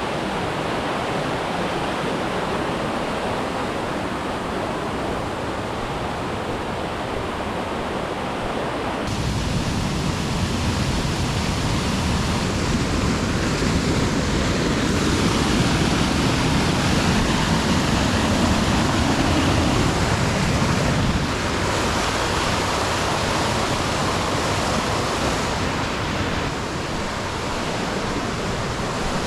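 Steady rushing noise of water, with the tone shifting abruptly a few times.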